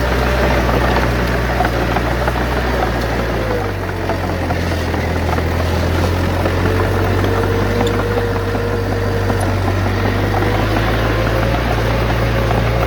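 Heavy diesel engine of a bulldozer running steadily under load. Its note shifts about three and a half seconds in and shifts back near the end.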